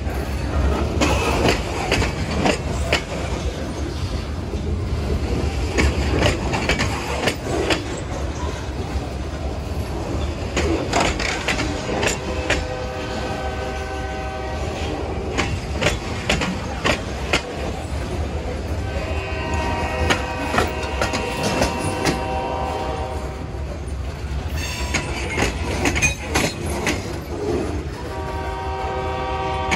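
Train rolling through a grade crossing with a steady low rumble and clicking wheels, while the GP40-2LW diesel locomotive's multi-tone horn blows three times: a short blast about twelve seconds in, a longer one a few seconds later, and another starting near the end.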